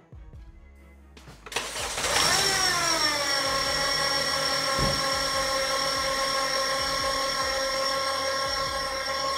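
A 2010 Honda Civic's 1.8-litre four-cylinder engine starts about one and a half seconds in, its revs flaring and falling back. It then idles with a steady high-pitched squeal and whine from the belt drive, which the owner traces to the belt tensioner's bearing rather than the power steering pump.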